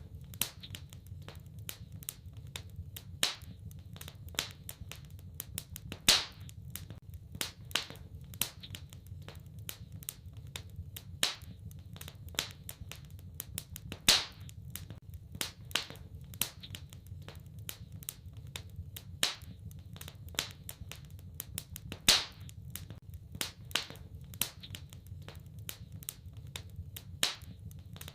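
Wood fire in a fireplace crackling, with irregular sharp pops and snaps, a few much louder than the rest, over a low steady rumble of the burning fire.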